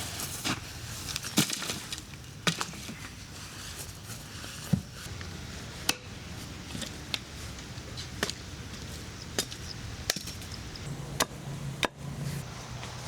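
Repeated chopping strokes, about ten sharp knocks spaced unevenly roughly a second apart.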